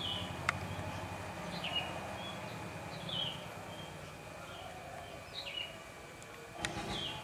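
A bird chirping in the background: short falling notes repeated about once a second, over a faint steady high tone. There are two sharp clicks, one shortly after the start and one near the end.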